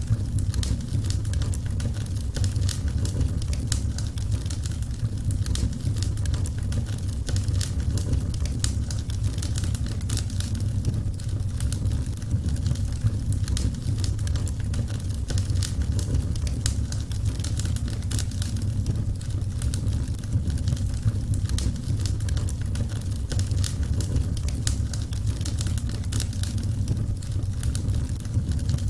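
Burning wood fire crackling: dense small sharp pops and snaps over a steady low rumble of the flames.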